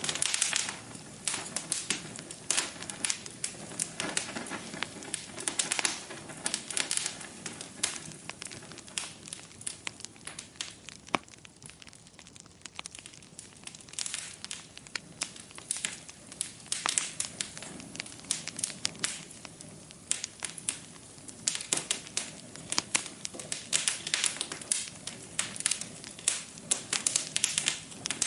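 Wood fire burning in a fireplace, crackling and popping: dense, irregular snaps over a soft hiss, thinning out briefly about halfway through.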